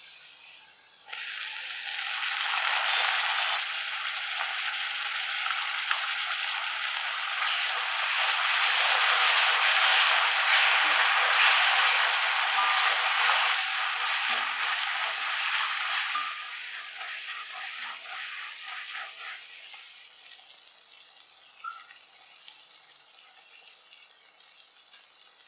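Chopped tomatoes and onions sizzling in hot oil in a steel pan while being stirred with a spatula. The sizzle starts suddenly about a second in, is loudest midway, and dies down to a faint hiss over the last several seconds.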